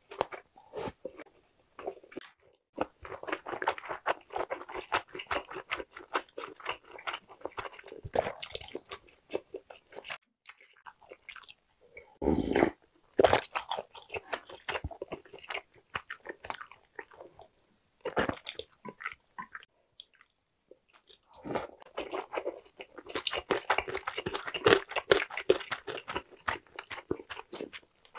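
A person chewing a mouthful of soft fish cake (eomuk): dense, rapid wet clicks and smacks in two long stretches, with a short low thump near the middle.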